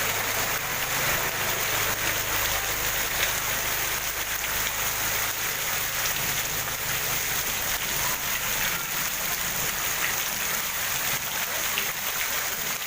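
Heavy rain pouring steadily onto a flooded street, a dense even hiss. A low steady hum lies underneath and fades out about halfway through.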